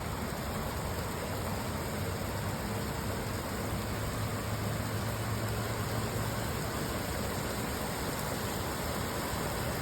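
Steady rain falling, an even hiss without breaks, with a faint low hum for a few seconds in the middle.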